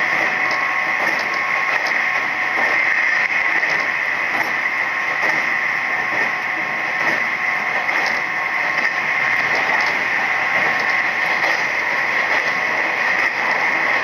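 Steady running noise inside a Nishitetsu 3000 series electric train car moving at speed: an even rush of wheels on rail, with a faint whine in the first two seconds.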